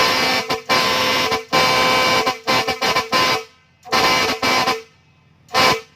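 Air horn on a six-wheel truck sounding in a series of loud blasts, most about a second long with short gaps between, ending with a short toot near the end.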